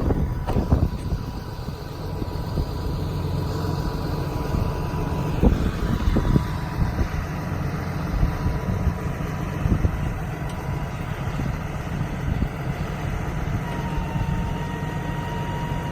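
6.7-litre Cummins turbo diesel idling steadily with the PTO engaged, a thin steady whine running over the engine hum. A few short clunks are heard along the way.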